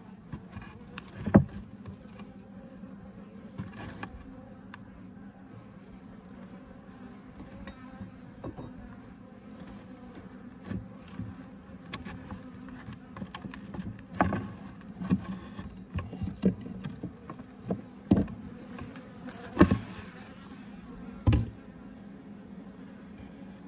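Honeybee colony buzzing with a steady hum. Several sharp knocks and clicks come about a second in and again in a cluster near the end.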